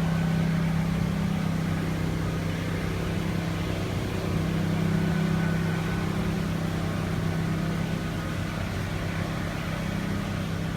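A steady low mechanical hum, like a small engine or motor running.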